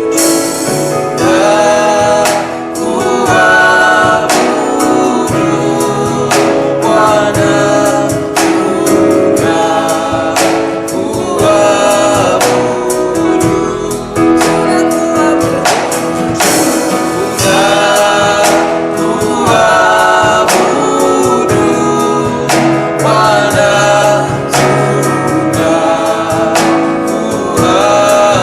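Live gospel worship music: singers, with choir voices, over a band with a steady drum beat.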